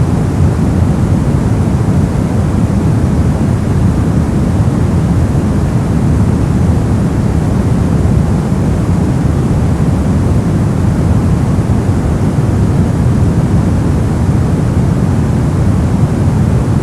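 Steady, unbroken noise of the kind used as a sleep and masking sound, sold as white noise but heavy in the low end: a deep, even rush with a thinner hiss above it.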